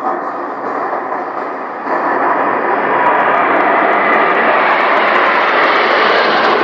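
Military aircraft flying over, a loud steady engine roar that jumps louder about two seconds in and grows brighter toward the end.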